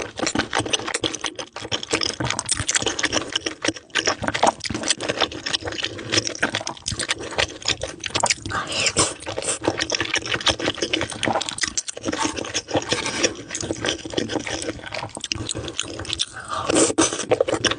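Close-miked eating: dense wet smacks and clicks of food being chewed, without a break.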